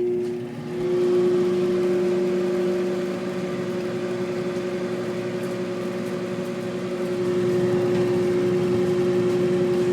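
Microwave oven running with a steady hum, heating a DVD; the hum grows a little louder about a second in.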